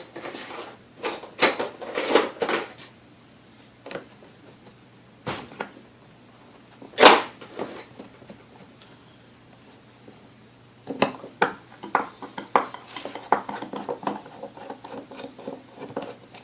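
Metal parts of a vintage Hamilton Beach Model D mixer clinking and knocking as it is taken apart by hand. Scattered clicks and clatter come first, then one loud knock about seven seconds in, then a quick run of clicks and rattles near the end.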